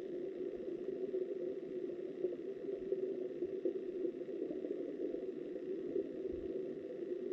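Steady, muffled rush of flowing river water heard from underwater through a submerged camera's housing.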